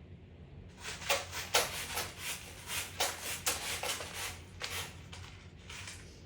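Quick rustling, rubbing strokes, a few a second, starting just under a second in and dying away about a second before the end.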